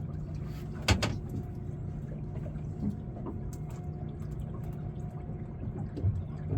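Sounds of a catfish being landed on a boat: a sharp knock about a second in, then scattered light clicks, a second thump near the end and some water noise, over a steady low hum.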